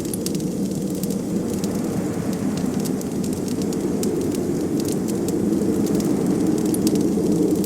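Crackling wood fire layered over a steady low rush of blizzard wind: a constant deep rumbling hiss with small, scattered pops and snaps from the fire throughout.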